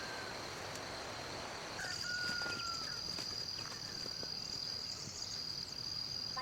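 Outdoor insects giving a steady high-pitched drone, with a faint short whistle about two seconds in.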